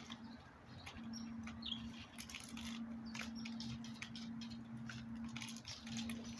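Small backyard birds close to the microphone: scattered light taps and clicks of pecking, with a few short high chirps. A steady low hum runs underneath and cuts out briefly a few times.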